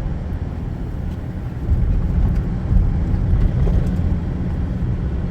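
Ford F-150 pickup truck driving on beach sand, heard from inside the cab: a steady low rumble of engine and tyres that gets a little louder about two seconds in.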